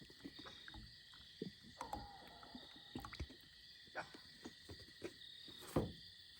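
Faint scattered clicks and knocks over a steady high-pitched whine, with one louder knock near the end.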